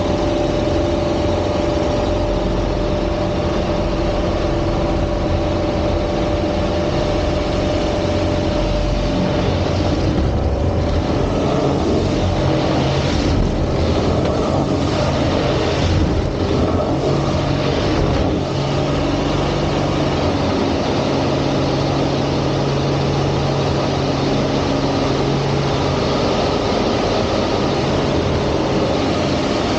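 Aerobatic airplane's piston engine and propeller running at display power, a loud continuous drone whose pitch shifts as the power changes. From about a third of the way in to past the middle, the sound wavers and dips several times as the plane manoeuvres.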